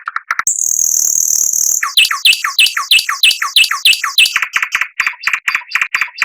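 Songbird singing a training 'masteran' song. It opens with a high buzzy note, then gives a run of sharply falling whistled chirps about three a second, and ends with a quicker series of repeated notes.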